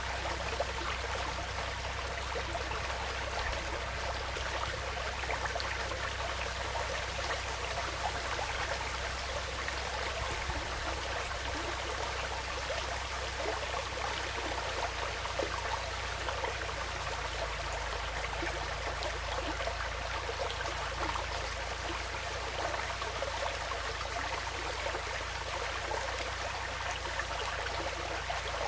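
Woodland stream flowing steadily: a continuous babble of running water with no breaks.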